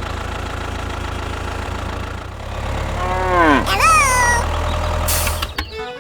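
A small motor humming steadily. About three seconds in, a pitched call glides down, then a higher call sounds briefly.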